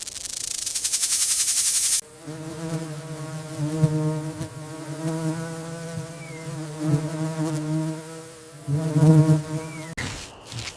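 A rapid, high, hissy rattle for about the first two seconds, cutting off sharply, then a flying insect buzzing steadily at a low pitch, dipping briefly near the end.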